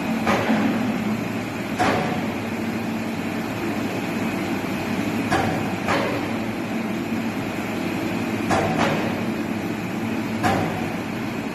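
A machine engine running steadily, with about seven sharp knocks or clanks at uneven intervals.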